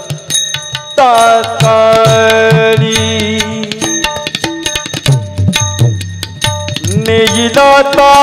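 Devotional kirtan music: voices hold long sung notes over fast pakhawaj (mridang) and tabla drumming. A new held note slides in about a second in, and another near the end.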